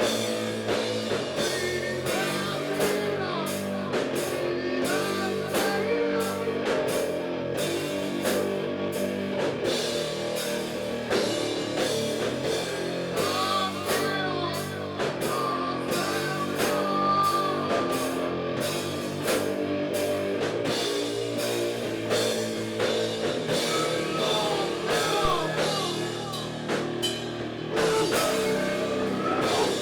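Rock band playing live: drum kit, guitars and bass in a steady groove, with bending lead lines above.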